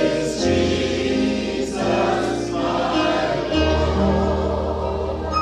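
A vocal group singing a gospel hymn in harmony, holding long chords over a low bass line that shifts to a new note about three and a half seconds in.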